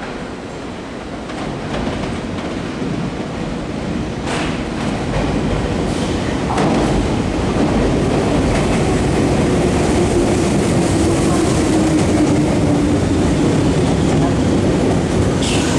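Meitetsu 6500-series red electric commuter train pulling into the station platform. The running noise of wheels and motors grows over the first several seconds, then holds loud as the cars run past. A low tone slides slightly downward while the train brakes toward a stop.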